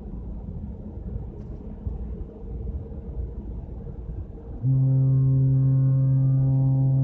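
Cruise ship's horn sounding one long, steady blast that starts suddenly about four and a half seconds in, over a low rumble.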